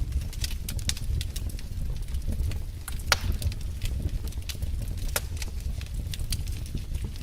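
Wood fire in a fireplace crackling: irregular sharp pops and snaps over a steady low rumble of the flames, with one louder pop about three seconds in.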